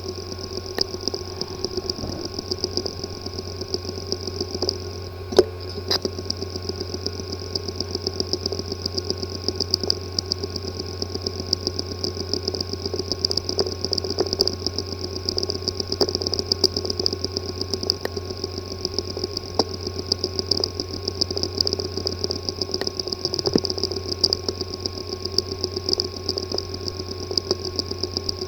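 Hard drive with a physically damaged disk assembly, running with a steady buzzing whir and a fast, even run of ticks, with one sharper click about five seconds in. This is the sound of head and platter damage inside the drive.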